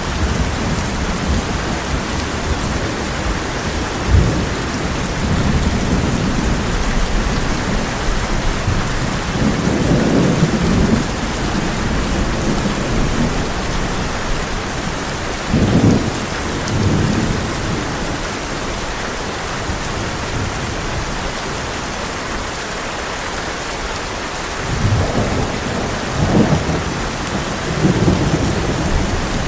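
Heavy rain hammering steadily on a tin roof, with rolling thunder rumbling through it several times: once about a third of the way in, a sharper clap a little past halfway, and a cluster of rumbles near the end.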